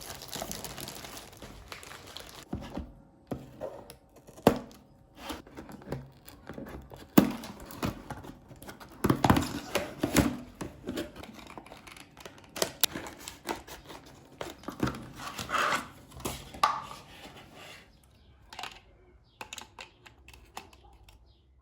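Handling sounds: crinkling and rustling with scattered sharp knocks and taps.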